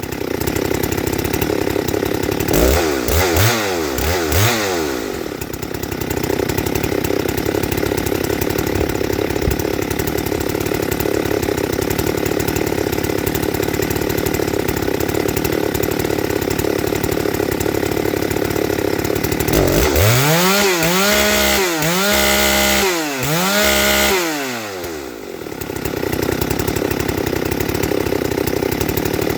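Ported Husqvarna 394XP two-stroke chainsaw running at idle, blipped up and back down a couple of times early on and then revved sharply four or five times in quick succession about two-thirds of the way through before settling back to idle.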